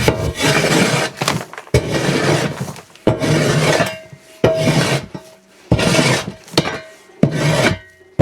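A hand tool scraping and shovelling chicken litter and droppings out of a coop: six rough scraping strokes, one every second or so, each about a second long.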